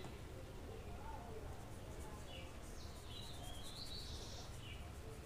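Faint birds chirping in short, warbling bursts over a low steady hum.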